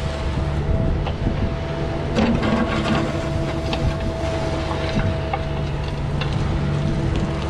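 An engine running steadily at a constant pitch, with scattered knocks and clanks over it.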